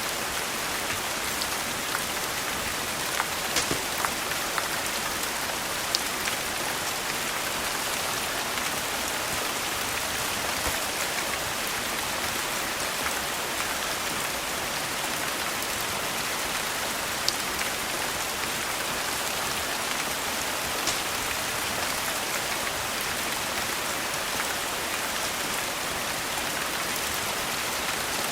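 Steady rain falling, an even hiss with patter, with occasional sharp clicks scattered through it and a small cluster about three to four seconds in.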